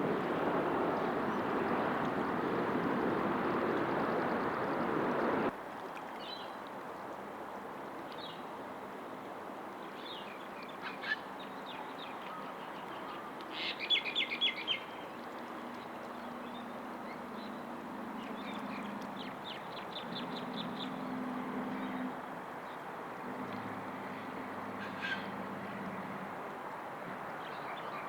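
A loud steady rushing noise that cuts off abruptly about five seconds in. It gives way to small birds chirping, with several quick trilled bursts, over a faint low hum.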